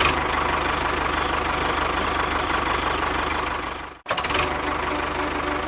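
Small engine running steadily with a fast pulsing beat. It cuts off abruptly about four seconds in and starts again straight away.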